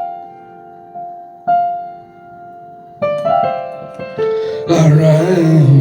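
Piano-sound keyboard playing struck chords that ring and fade, with new chords about every second or two in the song's instrumental gap. Near the end a wavering held voice-like note comes in over the keys.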